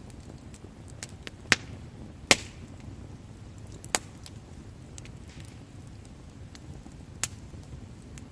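Wood fire burning with a low steady rumble, popping sharply four times, the loudest pop about two seconds in, with a few fainter crackles between.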